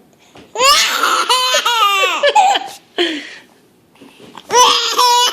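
Baby laughing: a long run of high-pitched giggles, a pause of about a second, then another burst of giggling near the end.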